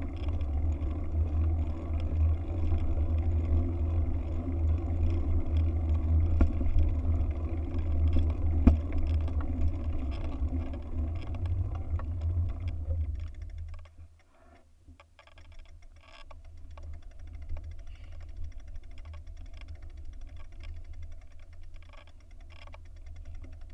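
Wind buffeting the microphone, a deep, bass-heavy rumble that drops away sharply about fourteen seconds in, leaving quieter noise with scattered faint ticks.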